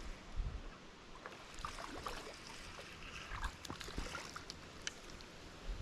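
Shallow river water splashing and sloshing around a wading angler, with scattered small clicks and knocks.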